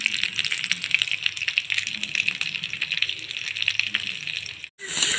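Chicken drumsticks sizzling and crackling in hot oil on a grill pan, a steady hiss full of fine pops that cuts off abruptly near the end.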